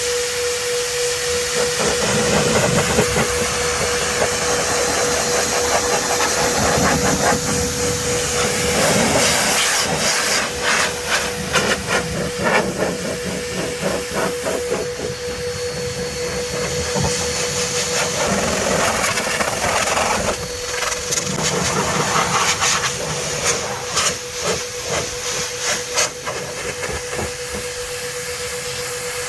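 Adam's Air Cannon car blow dryer running, a loud rushing hiss of air over a steady motor whine, swelling and dipping as the air stream is swept across the wet paint to blow the water off.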